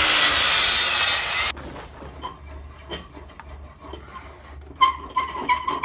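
Power saw cutting through a wooden board, the cut ending abruptly about a second and a half in, followed by light knocks and handling of the wood.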